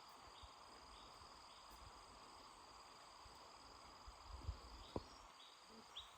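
Faint insects chirping: a steady high trill with a short chirp repeating about twice a second. Two sharp knocks about four and a half and five seconds in.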